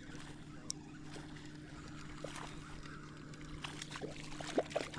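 Faint water movement and small clicks and knocks of handling on a fishing kayak while a hooked trout is brought in, over a steady low hum.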